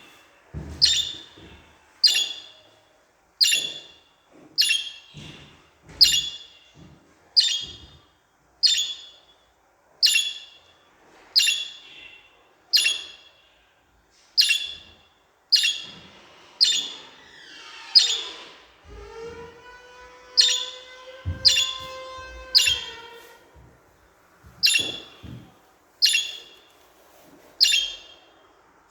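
Budgerigars calling: short, sharp chirps repeated about once every second and a third, broken around the middle by a longer wavering warble.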